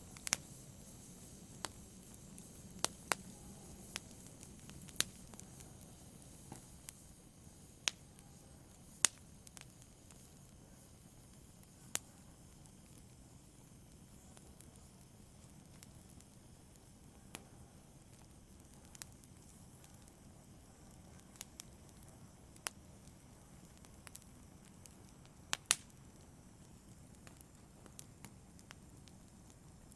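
Wood fire burning in a fireplace: a soft steady hiss with sharp, irregular crackles and pops, a dozen or so standing out.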